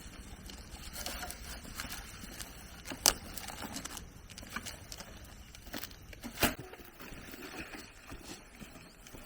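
Two sharp knocks, one about three seconds in and a louder one a little past six seconds, among lighter scattered clicks and rustling.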